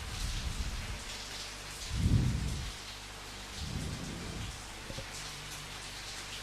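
Steady rain falling, with low rumbles of thunder. There is one rumble at the start, the loudest about two seconds in, and a weaker one around four seconds.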